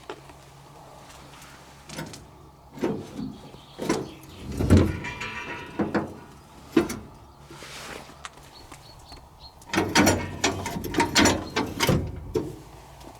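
Irregular metal knocks and clanks, some ringing briefly, with a scraping, ringing sound around five seconds in and a quick run of clanks near the end.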